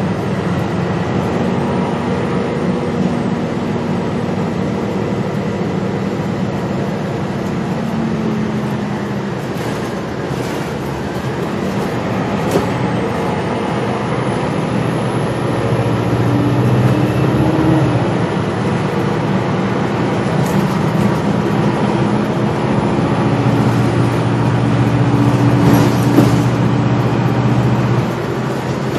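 Gillig Low Floor transit bus driving, heard from on board with no HVAC fans running: steady engine and road noise. The engine tone rises as the bus speeds up about halfway through and again near the end. A faint high whine rises a little before the middle.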